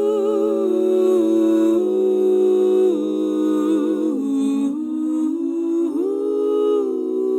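A cappella vocal group humming sustained close-harmony chords with vibrato, the chord moving every second or so as the song's introduction.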